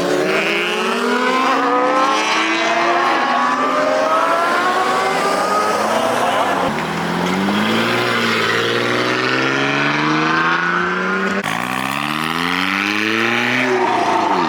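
Car engine accelerating hard through the gears: the pitch climbs steadily, drops at an upshift about halfway through, climbs again, and drops at another shift a few seconds later before climbing once more.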